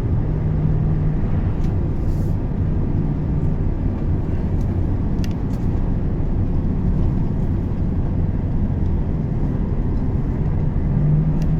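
Volvo truck's diesel engine and road noise heard from inside the cab while driving: a steady low drone with an engine hum that swells a little near the end.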